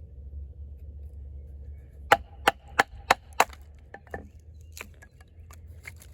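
Sharp wooden knocks while splitting kindling: five quick knocks about a third of a second apart, then a few lighter clicks.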